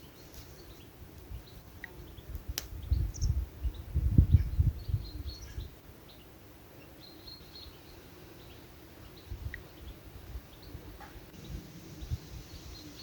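Small birds chirping, short scattered calls, with a louder stretch of low thumping partway through.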